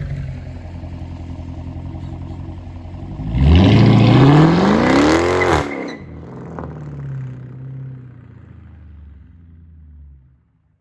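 Straight-piped Dodge Challenger R/T's 5.7 Hemi V8 exhaust rumbling, then revving hard with a steeply rising pitch for about two seconds before it cuts off sharply. It falls back to a lower rumble that fades away.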